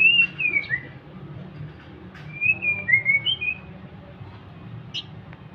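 White-rumped shama singing: two short phrases of clear, sliding whistled notes, one at the start and another about two seconds later, followed by a single sharp note near the end, over a steady low hum.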